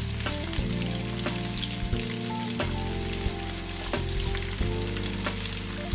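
Sliced onions sizzling in hot oil in a wok over a full flame, with a wooden spatula stirring and scraping now and then. Background music runs underneath.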